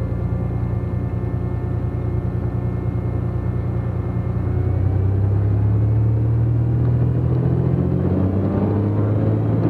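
Cessna T210's turbocharged six-cylinder engine and propeller running steadily, then rising in pitch and getting louder from about halfway through as power comes up for the departure.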